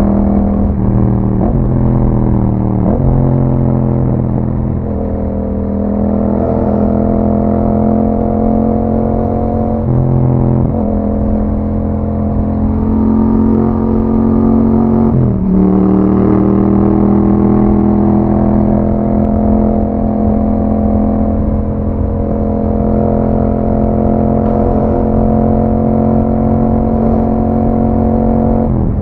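A 2021 Yamaha MT-07's 689 cc parallel-twin engine running through an Akrapovic exhaust while riding. It mostly holds a steady pitch, with several sharp dips in engine speed followed by recoveries, as when shifting gear or rolling off and back on the throttle: near the start, at about three, ten and fifteen seconds, and just at the end.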